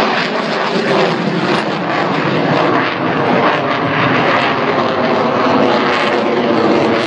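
F-16AM Fighting Falcon's Pratt & Whitney F100 turbofan running loud and steady as the fighter flies its display, a dense jet rush with no break.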